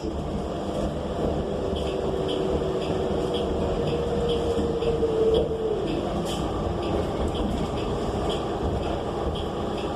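Inside a moving city transit bus: the Cummins Westport L9N natural-gas engine and drivetrain run steadily under a low rumble, with a steady tone that holds and then drops away about six seconds in. A faint regular ticking runs over it.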